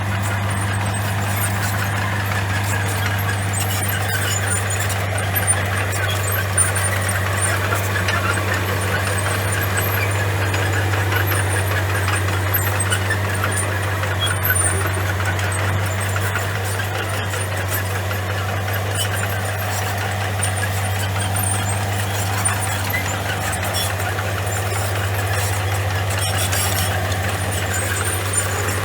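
Komatsu bulldozer's diesel engine running steadily at a constant pitch.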